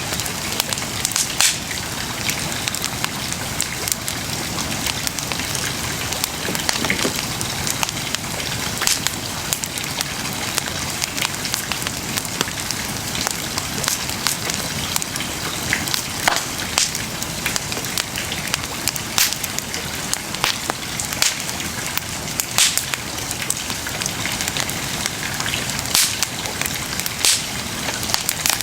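Wood bonfire burning, a steady hiss of flames with irregular sharp crackles and pops from the burning wood.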